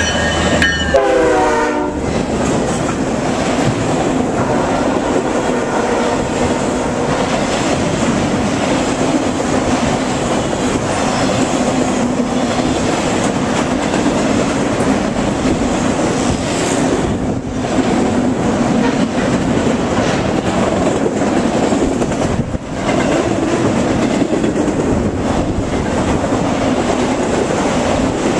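A BNSF ES44DC diesel locomotive passes at speed, and its horn drops in pitch as it goes by before cutting off about two seconds in. A long train of empty autorack cars then rushes past with a steady rumble of wheels on rail.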